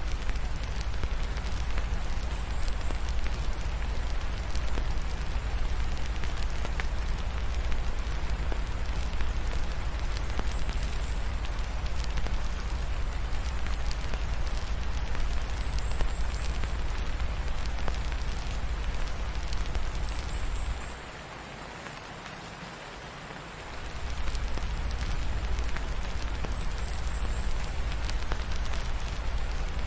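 Steady rain falling, mixed with a crackling wood fire. A deep low rumble runs under it and drops out for about three seconds a little past the middle.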